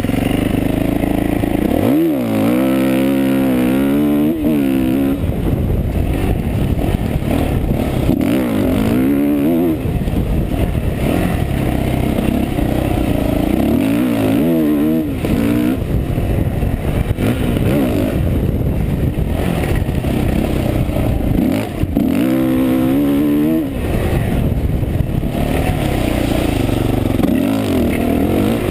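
Yamaha YZ450F's single-cylinder four-stroke engine being ridden hard: it revs up with rising pitch, eases off and revs up again, over and over.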